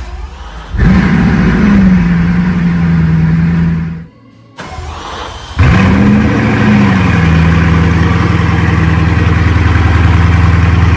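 Supercar engine started twice: each time it catches with a brief rising flare, then settles to a steady idle. There is a short gap of near silence about four seconds in, between the two starts.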